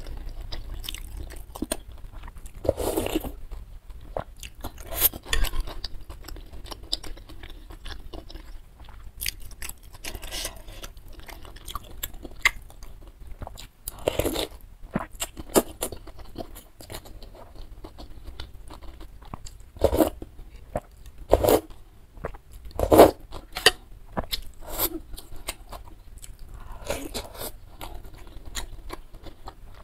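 Close-miked chewing and biting of beef tendon meatballs in spicy soup, in irregular bursts, with glass noodles slurped from the bowl about halfway through.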